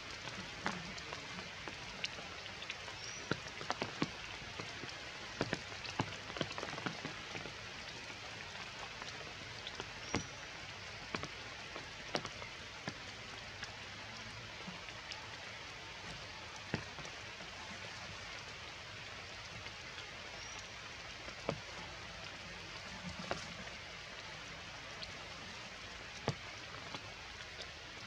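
Steady rain falling on tree foliage, with scattered sharp taps of drops landing close by.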